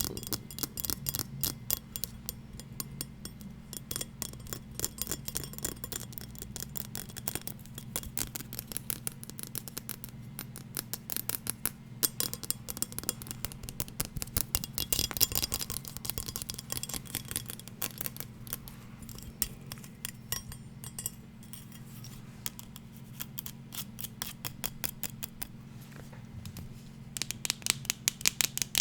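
Fast ASMR tapping and scratching on hard objects: rapid runs of sharp, crisp taps, many a second, getting louder around the middle and again near the end, over a steady low hum.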